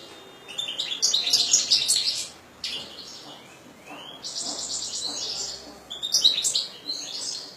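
European goldfinch singing: fast twittering phrases of high, quickly varied notes, with two short breaks between phrases.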